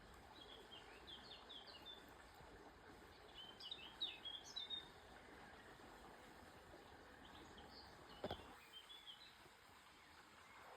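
Small songbird chirping in three short runs of quick, high notes, over a faint steady outdoor hiss. A single sharp click sounds about eight seconds in.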